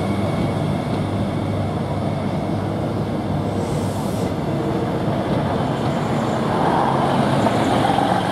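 YIA airport train cars rolling slowly past at close range during a shunting move, a steady rumble of wheels on rail with a constant machinery hum. The sound grows louder over the last couple of seconds as the train's green end car draws near.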